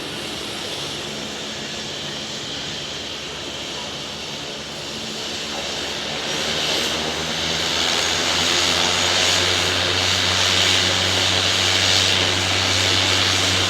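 Propeller engine of a floatplane running steadily, growing louder from about five seconds in.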